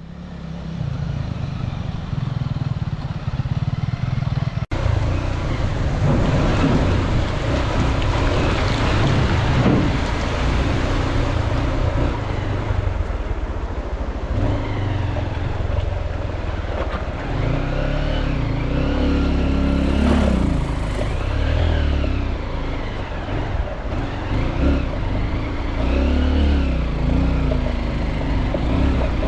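Dirt bike engine running under way, its pitch rising and falling as it revs up and down, with a brief break about five seconds in.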